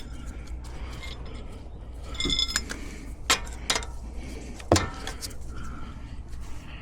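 Metal hand tools clinking and knocking. There is a short ringing clink about two seconds in, a few sharp clicks after it, and the loudest knock a little under five seconds in.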